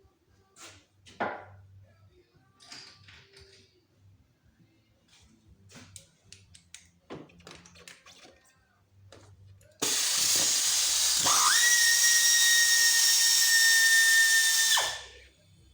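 Scattered light clicks and knocks of tools on engine parts. Then a loud, steady hiss comes in abruptly, a whistling tone rises and holds over it, and both cut off after about five seconds.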